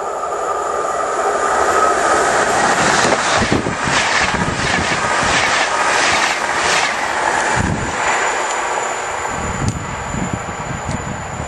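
A Finnish InterCity double-deck electric passenger train passing close at speed. A rush of steel wheels on rail builds, then a quick run of clattering beats comes as the coaches' wheelsets cross the rail joints, followed by a few heavier thumps. The sound fades as the train moves away near the end.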